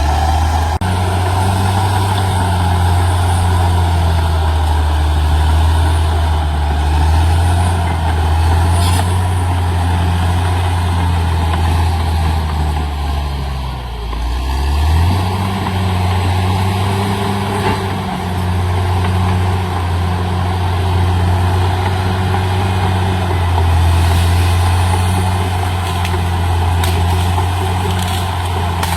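CAT D6R XL bulldozer's diesel engine running steadily under work. About halfway through, its note sags for a moment and then picks back up.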